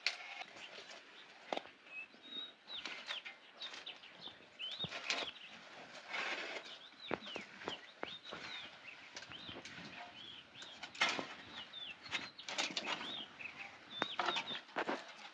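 Birds chirping in short, quick calls, with scattered clicks and rustling among them.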